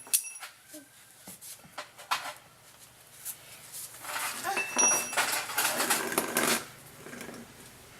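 Metal tools and parts clinking and rattling during reassembly of an ATV's rear shock: a few scattered clicks, then a busy run of metallic clinks with short ringing pings from about four seconds in until shortly before the end.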